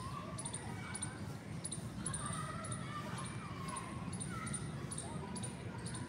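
Small birds chirping: short runs of rapid, high-pitched chirps about every half second, with lower wavering calls and a steady low rumble underneath.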